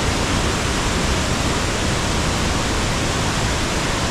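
Waterfall swollen by heavy storm rain: a loud, steady rush of falling water.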